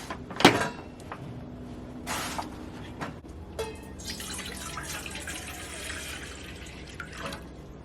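Water being poured into a pot to boil, a steady splashing pour of about three and a half seconds, preceded by a knock and a brief rustle.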